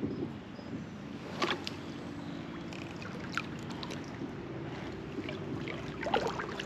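Kayak being paddled: steady water noise around the hull, with a few light knocks about one and a half, three and a half and six seconds in.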